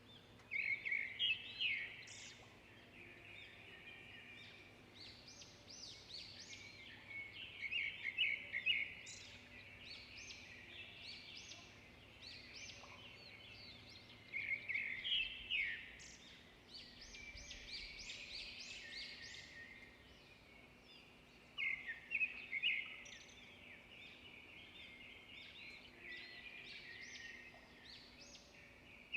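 Birds chirping and singing, with quick bursts of rapid repeated notes every few seconds and quieter calls in between.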